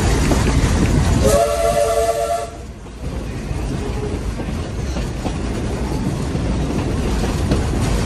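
Steam train running along the rails with a steady rumble, and a short chord-like steam whistle blast of about a second just over a second in. The running noise dips briefly after the whistle, then comes back.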